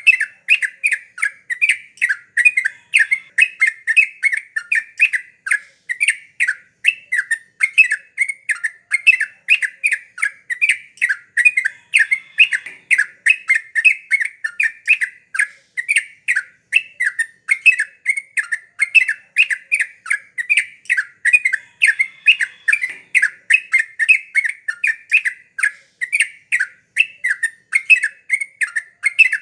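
Yellow-vented bulbul (trucuk) calling in a fast, unbroken chatter of short notes, about three or four a second.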